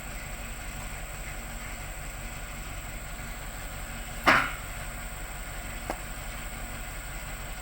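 Heavy-equipment engine idling steadily. A single sharp knock comes about four seconds in, and a lighter click follows a second and a half later.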